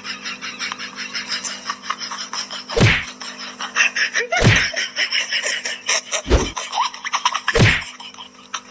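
Four heavy thumps, one to two seconds apart, over a steady hum and rapid small clicking.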